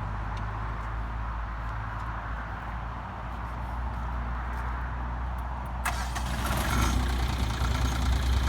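A sub-compact tractor's diesel engine running steadily. About six seconds in, the engine note grows louder and a rush of higher-pitched noise joins it.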